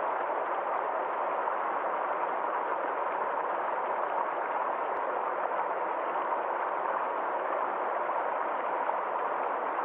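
Small forest stream flowing over rocks: a steady, even rush of water that does not change.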